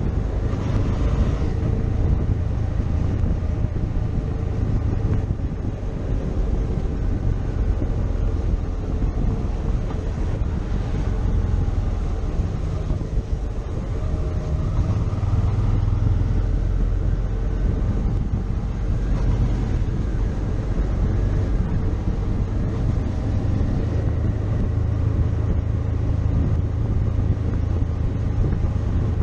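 Motorcycle engine running steadily under way, its pitch rising and falling a little with the throttle, with wind rushing over the microphone.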